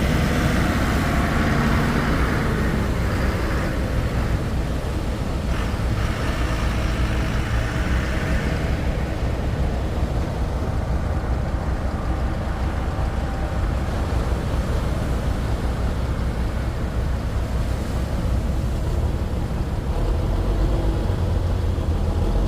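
Engines running steadily with a low rumble, with a hiss of noise over it for the first eight seconds or so that then fades.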